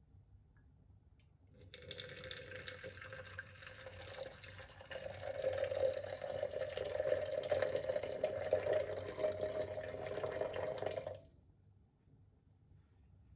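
Water running from a tap into a container, starting about two seconds in and shutting off suddenly near the end. Its tone rises slightly as the container fills.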